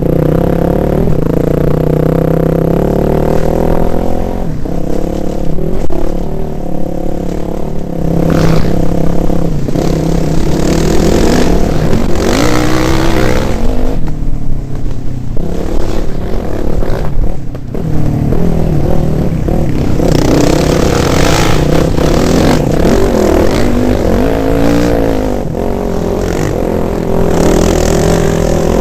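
Dirt bike engine revving up and down as the rider throttles on and off, its pitch repeatedly rising and falling, with bursts of rushing noise throughout.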